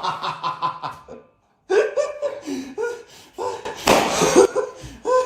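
People laughing in quick pulsing bursts. The laughter breaks off for a moment just after a second in, then starts again, with a louder, harsher burst about four seconds in.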